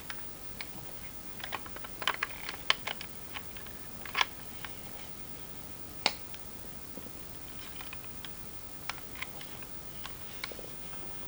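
Scattered small, sharp plastic clicks and taps from a plastic action figure being handled. There is a cluster of clicks about two seconds in, sharp single ones around four and six seconds in, and lighter ones toward the end.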